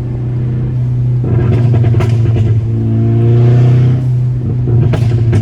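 MK6 Volkswagen GTI's turbocharged 2.0-litre four-cylinder engine and exhaust under acceleration: the engine note rises in pitch about three seconds in and drops as the throttle comes off near four seconds. A few sharp cracks follow near the end, the overrun pops of its pops-and-crackles tune.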